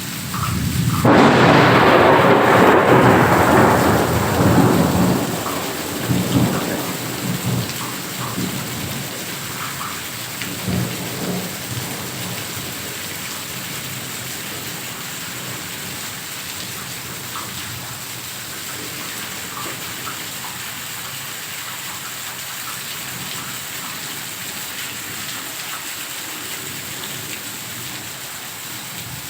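Heavy rain falling steadily, with a loud clap of thunder about a second in that rolls and fades over several seconds, followed by a few fainter rumbles.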